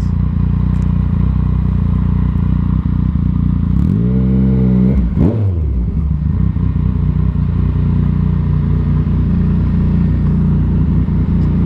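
Yamaha MT-09's three-cylinder engine through an aftermarket Arrow exhaust, running steadily at low revs, with one quick throttle blip that rises and falls about four seconds in.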